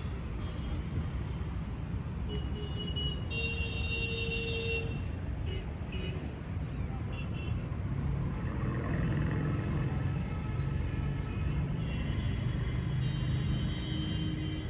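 Road traffic outside a shopping mall: a steady rumble of passing vehicles, with an engine drawing nearer and louder from about eight seconds in. A short, steady high tone sounds about three to five seconds in.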